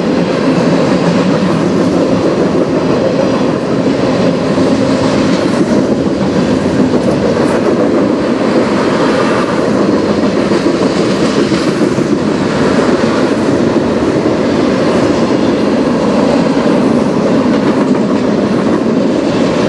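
CPKC freight train's covered hoppers and tank cars rolling past, a steady rumble of steel wheels on rail.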